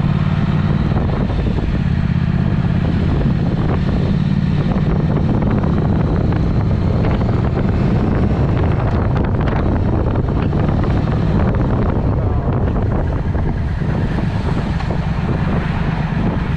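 Triumph Speed Twin's parallel-twin engine running through a Vance & Hines aftermarket exhaust at a steady pace, with wind buffeting the microphone.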